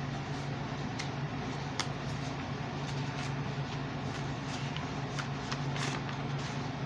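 A steady low hum over background hiss, with scattered light clicks.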